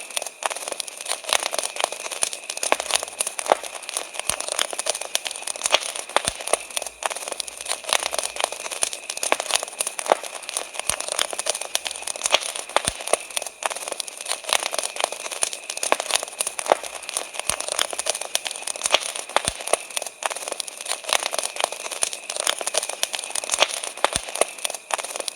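Wood campfire crackling, with frequent irregular sharp pops and snaps, while crickets chirr steadily in the background.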